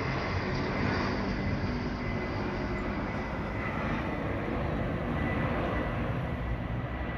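Steady rushing rumble and hiss, with a faint thin high tone running through it.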